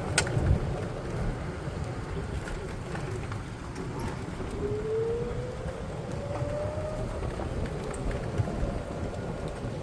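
Golf cart running along, a steady low rumble of motor and wheels; about halfway through, a whine rises slowly in pitch for a couple of seconds as it picks up speed.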